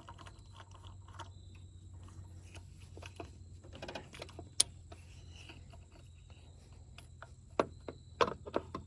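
Scattered small metal clicks and taps of hand tools and a spark plug being handled, over a steady low hum. The sharpest click comes about halfway through, with a few more near the end.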